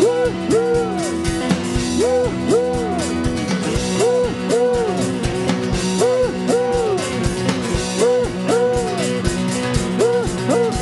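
Live band of drum kit, electric guitar and bass playing a steady chugging train groove, while voices call "woo-hoo" like a train whistle, two rising-and-falling notes about every two seconds.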